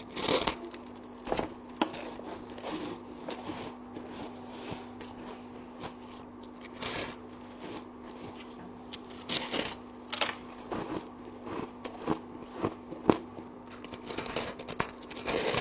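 Frost being bitten and crunched in the mouth: irregular crisp crunches, some sharper than others, over a steady low hum.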